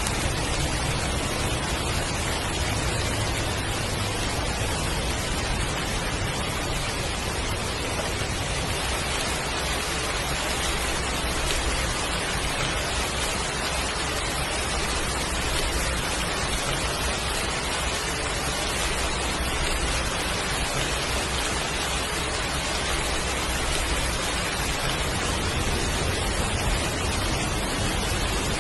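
Heavy rain falling steadily, an even rushing hiss with a low rumble that swells and fades underneath.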